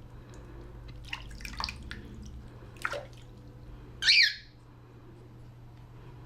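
Cockatiel squawking once, loud and harsh, about four seconds in, while being bathed in shallow water. Before that come a few short splashes and scrapes as it moves about in the water.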